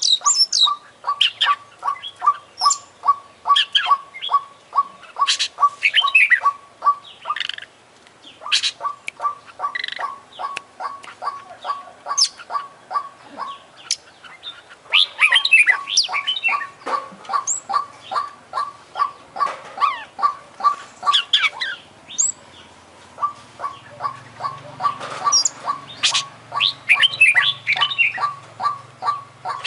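Oriental magpie-robin (kacer) singing a varied song full of imitated calls: bursts of high chirps, trills and whistles over a steady run of short notes at about three a second, which pauses briefly a few times.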